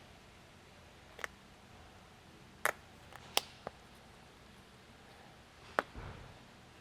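Scattered sharp clicks and taps, about five spread over several seconds, then a soft thump near the end: plastic gear-oil bottles, spouts and a hand transfer pump being handled on a workbench.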